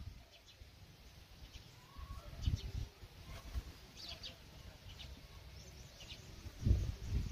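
Scattered faint bird chirps, short and high, with low thumps on the microphone about two and a half seconds in and again near the end.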